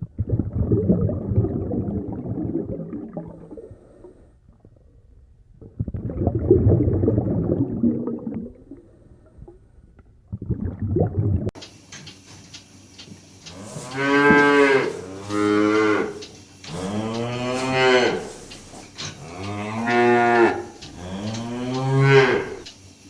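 Cattle mooing: about five long moos that rise and fall in pitch, one after another, in the second half. Before them come three rough, low calls.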